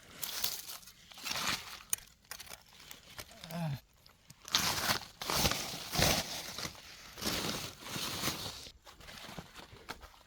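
Dry leaf litter and debris rustling and crunching in uneven bursts as it is pushed and pulled apart, loudest about halfway through.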